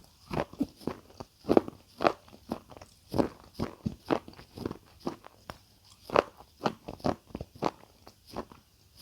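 Close-miked crunchy food being bitten and chewed: a steady run of sharp, loud crunches, about two a second.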